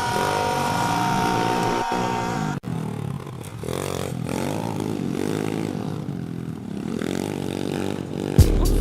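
Dirt bike engine running, its pitch sinking slowly for the first couple of seconds. After a sudden break it goes on more quietly, rising and falling in pitch as the throttle is worked.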